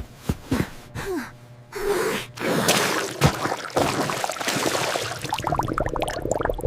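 Breathy gasping and sighing sounds with short wavering vocal bits, starting about two seconds in.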